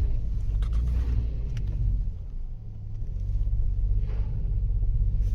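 Front-wheel-drive car's engine and tyres giving a steady low rumble on a snowy road, with a brief dip about two and a half seconds in; the car can climb no further.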